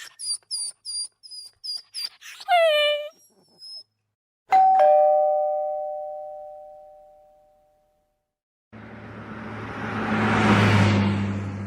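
A doorbell chime rings once about four and a half seconds in, two tones together fading out over about three seconds. Before it come a quick run of short high chirps and a falling call. Near the end a rushing sound with a low hum swells up and starts to fade.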